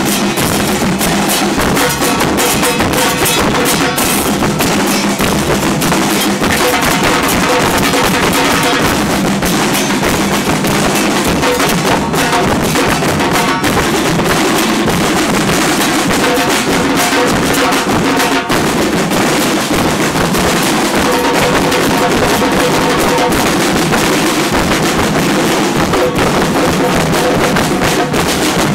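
Carnival drum group playing: loud, dense drumming with bass drums and snare, going on without a break.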